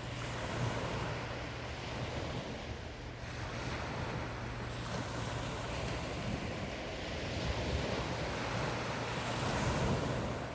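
Sea waves washing onto the shore, swelling and easing, the biggest surge near the end, with wind rumbling on the microphone.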